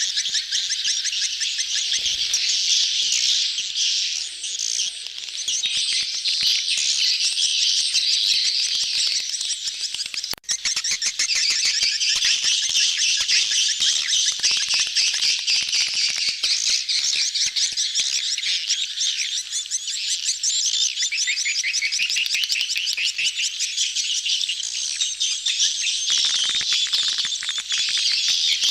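A crowded colony of swiftlets twittering in a dense, continuous chorus of rapid chirps. These are the mating-season calls used as a lure sound to draw swiftlets into a nesting house. The chorus drops out very briefly just after ten seconds in.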